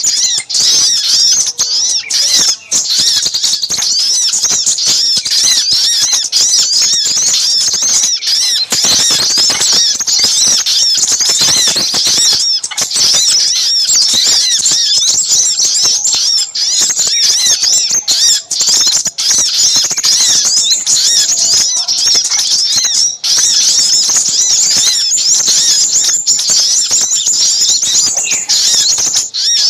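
Agitated, nonstop chattering of brown-throated sunbirds (sogok ontong) mixed with crimson sunbird (sepah raja) calls: dense, rapid, high-pitched chirps overlapping one another. This is a bird-trapping lure call for small birds.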